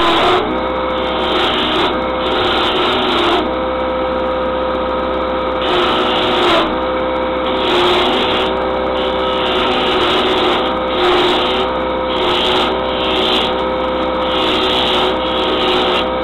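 Wood lathe running steadily with a motor hum while a turning chisel cuts a spinning wooden handle blank. The scraping of the cut comes and goes in repeated passes, every second or two.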